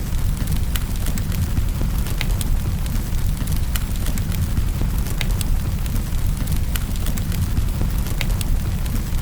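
Fireplace wood fire crackling, with irregular sharp pops scattered over a steady low rumble, mixed with the hiss of rain.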